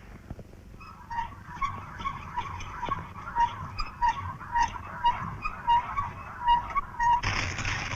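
Cartoon sound effect: a rapid run of short, nasal, goose-like honks, about two to three a second. Near the end it gives way to a louder rushing noise.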